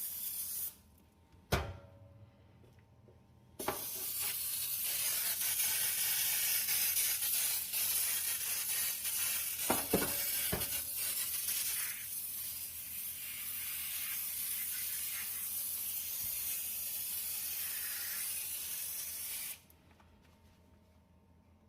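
Cleaner being sprayed in a long, steady hiss. A short spray stops a little under a second in, a knock comes about a second and a half in, and then the long spray runs for about sixteen seconds with a couple of clicks partway through before it cuts off near the end.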